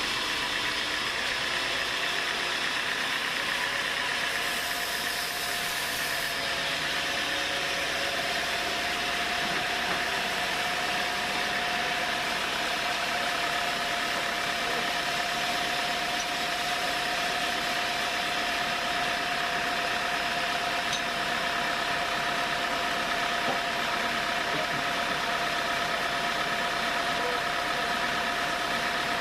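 Sawmill machinery running steadily: an engine drone with a steady high whine over it and no change in load.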